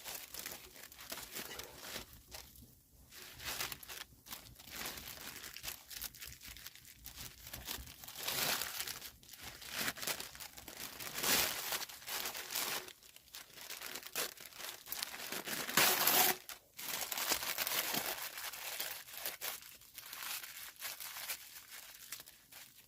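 Irregular crinkling, crunching rustles of something being handled, with louder bursts about 8, 11 and 16 seconds in.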